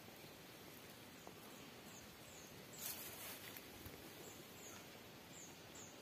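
Faint outdoor ambience in which a bird gives short, high chirps that slide downward, mostly in pairs, from about two seconds in. A brief rustle comes about three seconds in.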